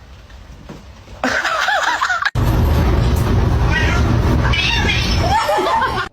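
A cat meowing in short arching calls: a few just after a second in, then two more groups later over a loud low rumble that starts suddenly about two seconds in and cuts off near the end.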